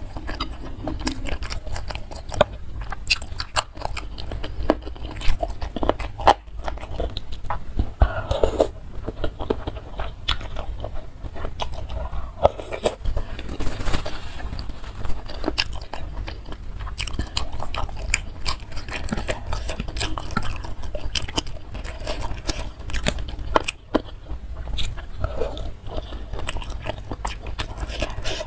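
Close-miked chewing and wet mouth sounds of a person eating instant noodles in spicy broth, with many small clicks throughout.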